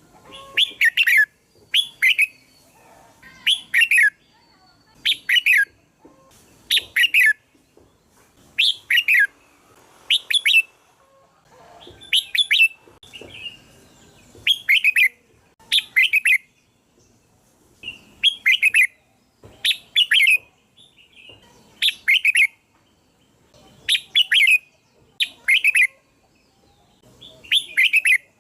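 Red-whiskered bulbul singing: short, bright phrases of quick falling notes, repeated about every one and a half to two seconds, often two in close succession.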